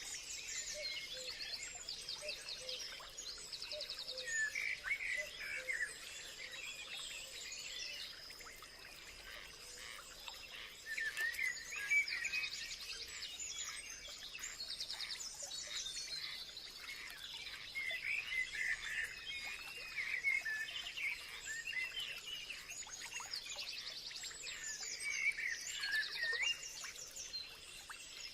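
Several wild birds chirping, whistling and trilling in quick rapid runs, overlapping throughout, over a steady high-pitched insect drone.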